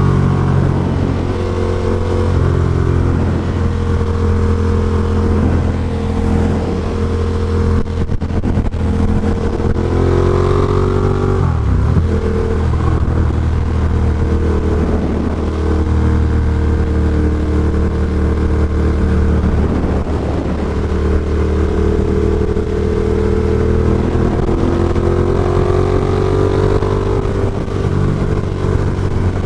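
Ducati Diavel Carbon's L-twin engine running through an Austin Racing GP2 exhaust while riding, heard from a microphone inside the rider's helmet. The engine note holds steady for long stretches, drops and comes back up about eleven seconds in, and climbs again near the end.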